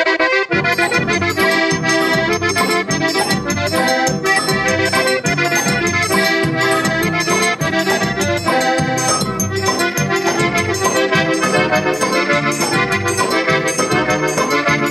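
Instrumental introduction of a forró-style baião song: accordion playing the melody over a steady beat of bass and percussion.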